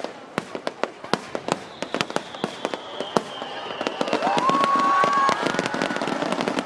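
Fireworks going off: a rapid scatter of sharp bangs and crackles, with a long, slowly falling whistle in the first half. The bursts grow louder and denser in the second half.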